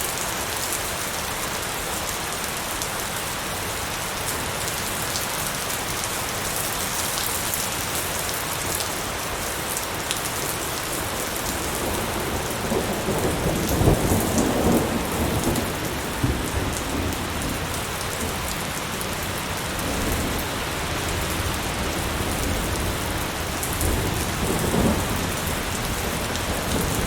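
Light rain falling steadily, a continuous patter of drops. A low rumble swells up twice, about halfway through and again near the end.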